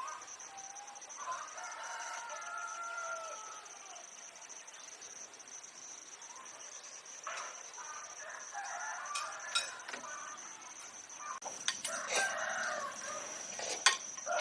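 Farm chickens: a rooster crows once, a long call about a second in, and hens cluck in the later part, over a steady high-pitched tone.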